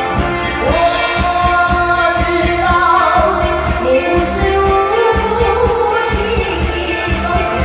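A singer's voice comes in about half a second in and sings long held notes over musical accompaniment with a steady beat.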